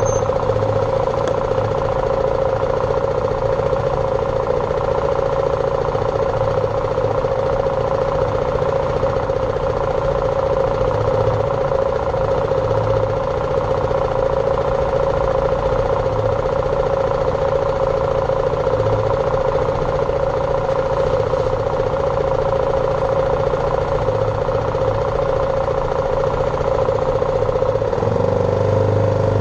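BMW G310R's single-cylinder engine running steadily at constant revs, then its note starts to change and rise just before the end.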